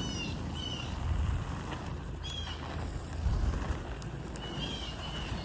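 Skate wheels rolling steadily over smooth pavement, a low rumble mixed with wind on the microphone. A few short high chirps come over it.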